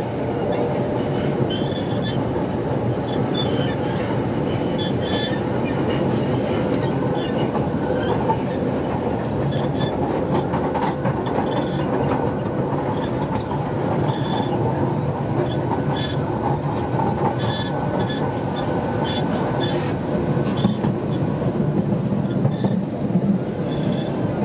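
A Manila elevated rail-transit train running, heard from inside the passenger car: a steady rumble of wheels on rail, with brief high wheel squeals and occasional clicks.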